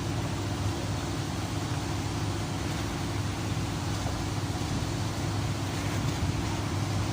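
Steady low mechanical drone: a constant hum with an even noise over it, like a nearby engine or machine running without change.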